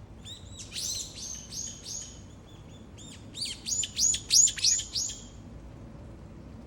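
Brown-eared bulbul calling: two runs of rapid, shrill, high chirps, the second run, starting about three seconds in, louder than the first.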